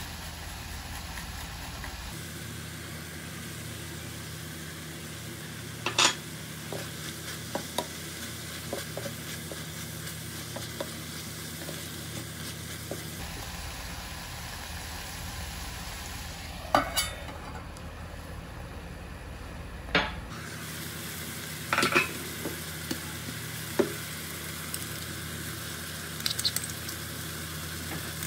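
Food sizzling in hot oil in a pan as it is stirred, with a few sharp knocks of a utensil against the pan.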